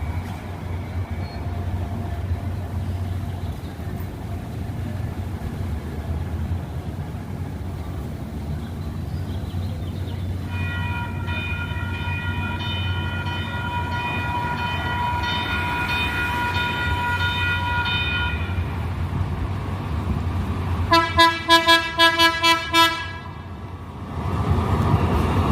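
Light rail train running with a steady low rumble. About ten seconds in, its horn sounds one long blast lasting about eight seconds. A few seconds later comes a fast string of about eight short toots, and the rumble swells near the end.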